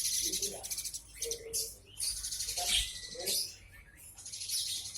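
Several caged songbirds singing and chirping together, with rapid high trills that come again and again.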